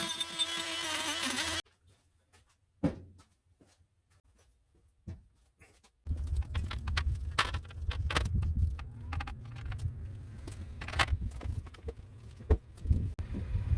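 A power tool runs with a steady, buzzing whine and cuts off abruptly under two seconds in. After a quiet stretch with two single knocks, a low rumble sets in with scattered clicks and taps of workshop handling.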